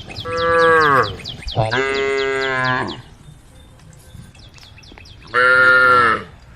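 Cows mooing, three calls, the first and last falling in pitch. Under them runs a faint high chirping repeated several times a second.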